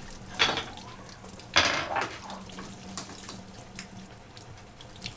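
Kitchen sink tap water running and splashing as dishes are washed by hand. The loudest splash comes about a second and a half in, with a few light knocks later.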